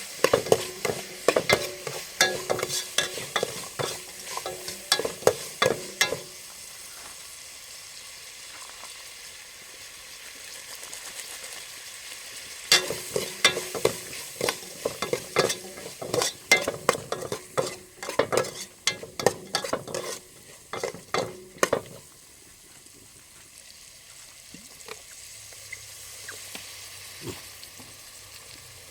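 Stir-frying: a metal utensil clattering and scraping rapidly against a pan while food sizzles, in two spells of about six and nine seconds, with steady sizzling in between and after.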